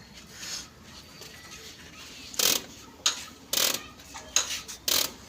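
Metal tools and engine parts clanking and scraping during hand work on an old Ruston diesel engine. There are about five sharp metallic clatters in the second half, the loudest about two and a half seconds in, and no engine running.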